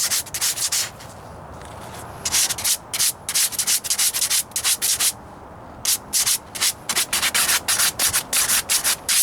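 80-grit sandpaper on a hand sanding block rasping back and forth over spot glaze and body filler on a truck's steel rocker panel. The strokes come quickly and evenly, about three or four a second, in three runs broken by two short pauses.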